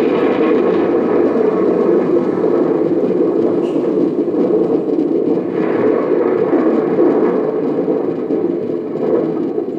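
Recorded thunder: a long, loud, continuous rumble that swells slightly about six seconds in and again near the end.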